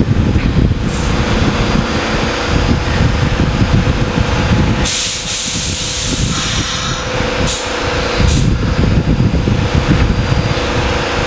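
R46 subway train at a station: a steady low rumble with a faint steady hum, broken about five seconds in by a loud air-brake hiss lasting about two seconds, then two short hisses a little later.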